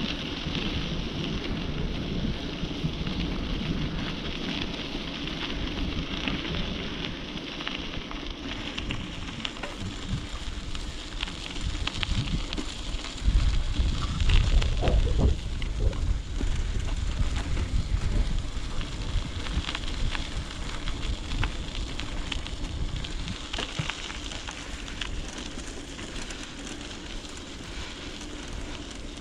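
Bicycle ride: a steady crackle of tyres rolling over the path, with wind rumbling on the microphone, louder for a few seconds around the middle.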